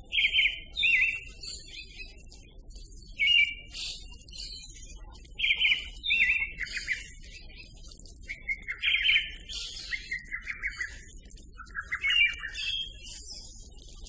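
A songbird singing short chirping phrases of quick notes and trills, in bouts every two to three seconds.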